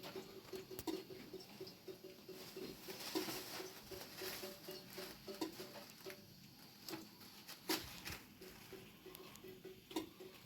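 Rain pattering, with scattered sharp taps and knocks and a faint, fast, pulsing low tone underneath.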